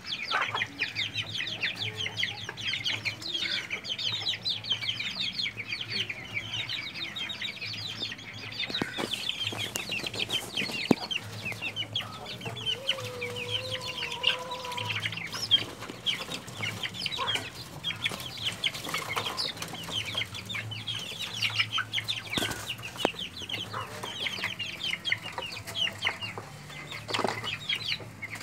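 A brood of Aseel chicks peeping without pause, many short high chirps overlapping. About 13 seconds in, a lower wavering tone runs for a couple of seconds.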